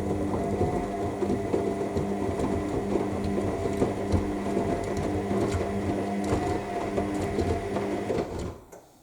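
AEG L7FE7461BI washing machine's motor turning the drum during the main wash, with a steady motor hum under the clatter and rattle of the laundry tumbling. The drum stops about eight and a half seconds in, the usual pause between turns in a wash.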